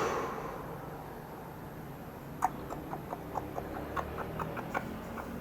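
A series of light, irregular clicks, about two to three a second, starting about two and a half seconds in over faint room tone.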